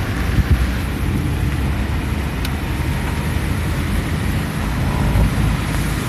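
Steady road noise and engine rumble of a moving car, heard from inside the cabin.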